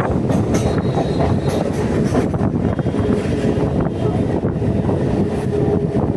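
Local EMU electric train running along the track, heard from on board: a steady loud rumble with irregular clicks of the wheels over the rails.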